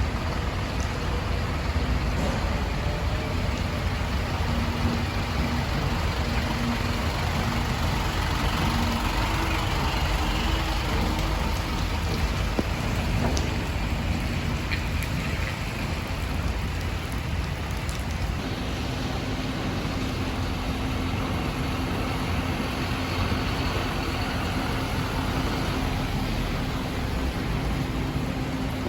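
Truck engine running steadily, with a low rumble and an even wash of rain noise. A steady hum joins in about two-thirds of the way through.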